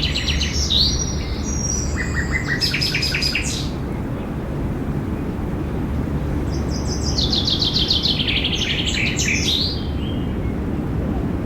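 Songbirds singing in short bursts: fast series of repeated notes stepping down in pitch, heard three times with a faint call near the end, over a steady low background rumble.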